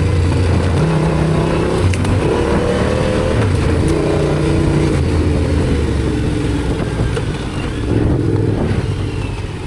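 Yamaha Ténéré 700's parallel-twin engine running under way, its revs repeatedly rising and falling.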